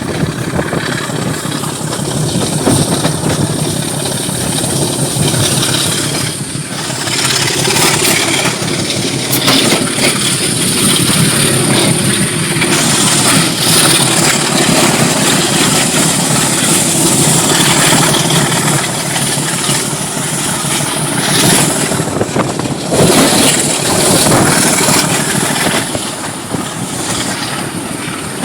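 Heritage diesel locomotive engine running loud and steady, with a high steady whine over it and a few brief clanks.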